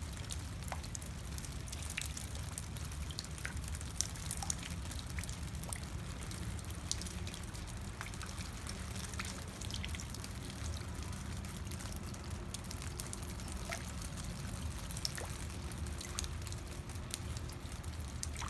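Rain dripping and trickling, with many separate drops ticking irregularly over a steady low rumble.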